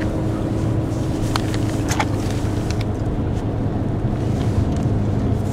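Steady drone of a car's engine and tyres heard from inside the cabin while driving on a snow-covered highway, with a few faint clicks about one to three seconds in.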